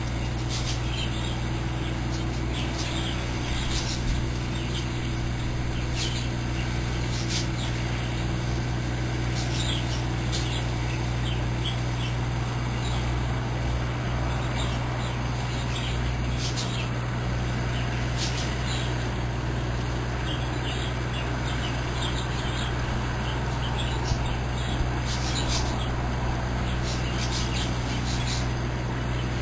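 A small bird chirping over and over in short, high notes, scattered irregularly, over a steady low hum.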